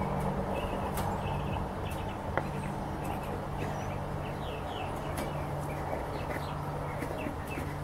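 Small birds chirping repeatedly in short, falling notes over a steady low hum, with a few light clicks as the plastic paint cup is handled and fitted onto the spray gun.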